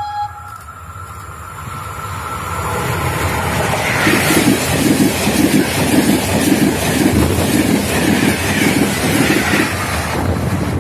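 Passenger train of coaches running through the station without stopping. A rushing noise builds as it approaches, then comes a loud rhythmic clatter of the wheels, about two beats a second, for some six seconds. The clatter falls away about ten seconds in as the last coach passes.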